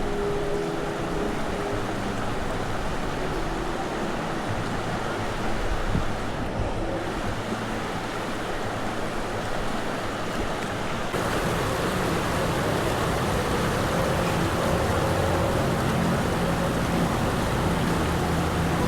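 Steady rushing noise of moving water or wind at the creek, with a low steady engine-like hum underneath. The sound shifts abruptly about eleven seconds in.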